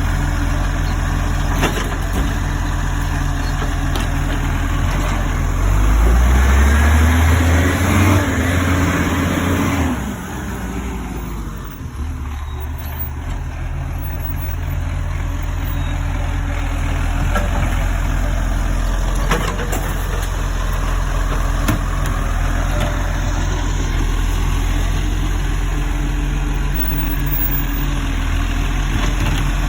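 Garbage truck's diesel engine idling, revving up with rising pitch for a few seconds about six seconds in, then dropping back and settling to a steady idle.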